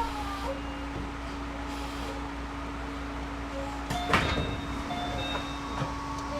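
Inside a stopped Series 211-5000 electric train: a steady hum from on-board equipment, then about four seconds in the passenger doors slide open with a sharp clunk.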